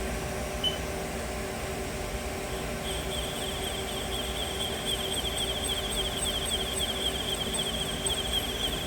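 CNC lathe running with a steady hum. From about three seconds in, a high, rapidly wavering whine joins it and holds.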